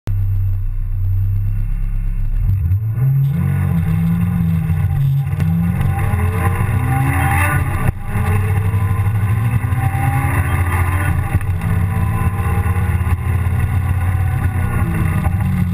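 Honda S2000's 2.0-litre four-cylinder engine heard from inside the open cockpit. It runs low and steady for about two and a half seconds, then revs climb hard under full throttle in second gear. There is a brief break near eight seconds as it shifts up to third, after which the revs climb again toward 8000 rpm.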